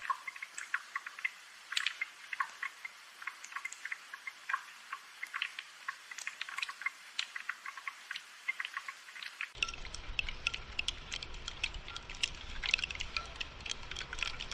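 Rain falling, with many distinct drops pattering and ticking over a steady hiss. For most of the stretch it sounds thin, lacking any low end, then turns fuller near the end.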